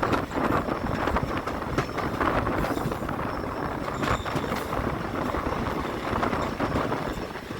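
Passenger train running along the track: a steady rumble with a few irregular sharp clicks.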